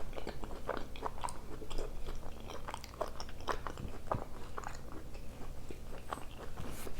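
A person chewing and biting food, with many small sharp mouth clicks and crunches.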